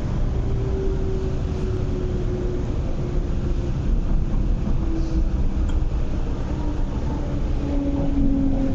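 MTR East Rail Line R-train, a Hyundai Rotem electric multiple unit, heard from inside the passenger cabin. It runs on the track with a steady low rumble, and a thin motor hum slides and steps down in pitch as the train slows.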